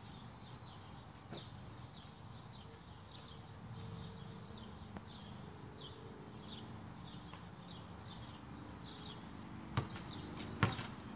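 A bird calling with a repeated short, falling high chirp, about two a second. Near the end a basketball starts bouncing on the driveway.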